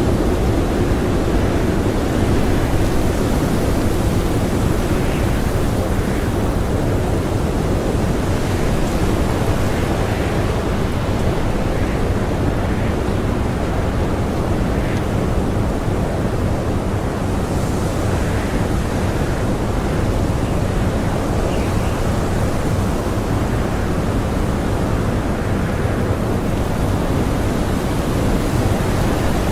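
Strong blizzard wind howling and blowing loose powder snow: a steady, dense rush of noise, heaviest in the low end, that does not let up.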